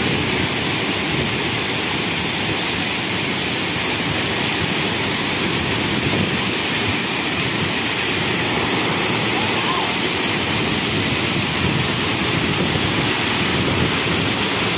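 A rain-swollen waterfall roaring steadily: dense, unbroken rushing water.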